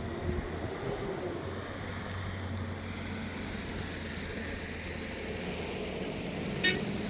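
A motor engine running steadily with a low, even rumble, and one sharp click near the end.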